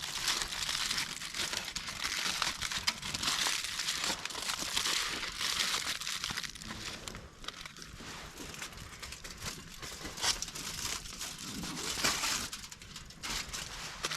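Continuous crinkling and rustling of handled material, a dense run of small crackles with no speech.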